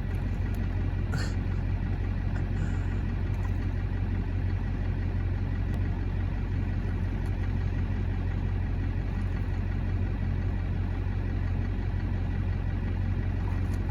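A vehicle engine idling steadily with a constant low hum.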